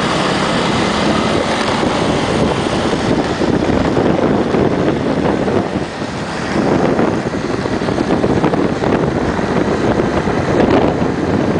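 Wind rushing over the microphone of a moving small motorbike, mixed with its engine and road noise. It runs steadily, easing briefly about six seconds in.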